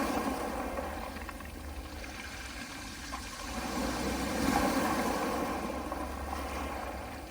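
Small sea waves washing onto a pebble beach, the noise swelling and ebbing, with one wave surging about four and a half seconds in.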